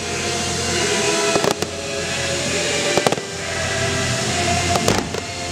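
Fireworks bursting over a continuous dense noise, with sharp bangs in three clusters spaced about a second and a half apart.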